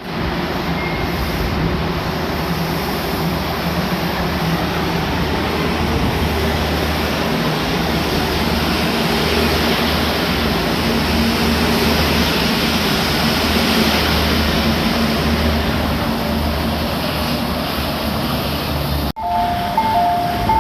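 Osaka Monorail train running at the station: a steady hum and rumble with no break. About a second and a half before the end the sound cuts off sharply, and a chime alternating between two notes begins.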